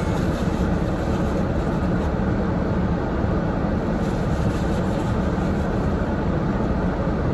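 Steady low rumble and hiss of a running vehicle, with no breaks or sudden sounds.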